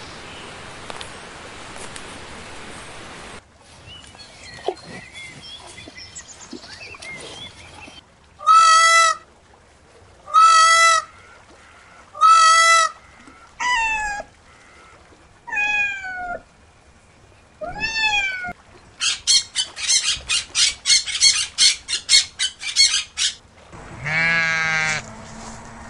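A steady rushing noise for the first few seconds, then an Indian peafowl (peacock) calling: three loud, even calls, then three shorter calls that rise and fall, then a fast run of short honks for about four seconds. Near the end, a goat bleats with a wavering, trembling voice.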